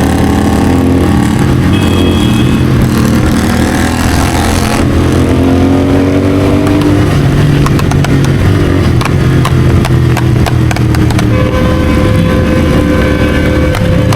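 Royal Enfield Continental GT650's 648 cc parallel-twin, fitted with an aftermarket Red Rooster exhaust and Code6 tune, running under way. Its pitch falls early on, then climbs again. A run of sharp cracks and pops comes through the second half.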